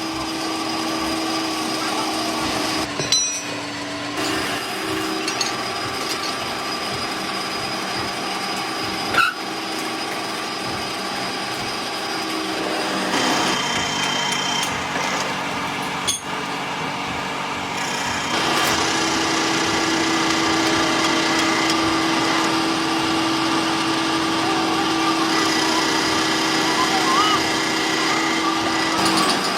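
Workshop machinery and power tools running steadily with a held whine, with occasional sharp knocks. The sound changes abruptly several times.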